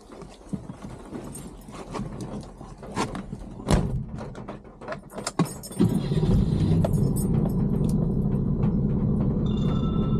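Keys jangling with clicks and knocks, then about six seconds in a Suzuki Jimny's engine starts and settles into a steady idle.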